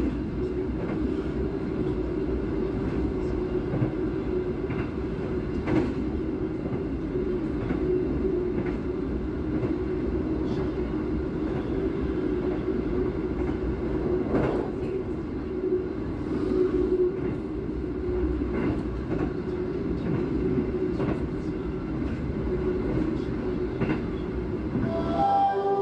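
Passenger train coach running at speed, a steady rumble of wheels on rails heard on board. A few sharper clicks come over the rail joints, the clearest about 6 and 14 seconds in.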